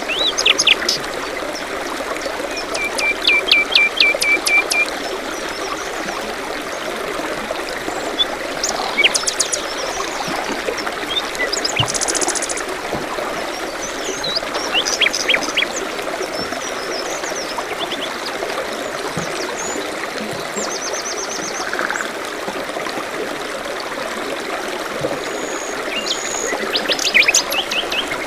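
Steady running water of a forest stream, with songbirds calling over it: a run of even repeated notes a few seconds in, and short high trills and chirps scattered throughout.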